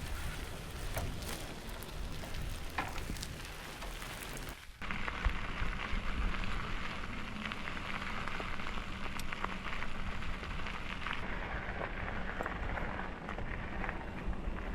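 Steady outdoor rushing hiss with scattered small ticks. About five seconds in it changes abruptly to a louder, brighter rushing hiss.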